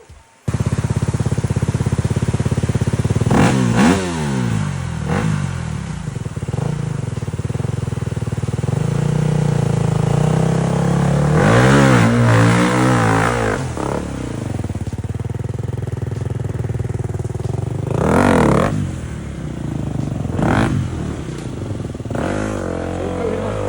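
Enduro motorcycle engine running and revving up and down repeatedly, with a long wavering stretch of blips about halfway through and sharp revs near 18 and 20 seconds.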